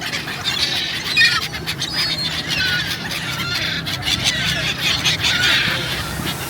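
A flock of gulls calling, many short squealing calls overlapping.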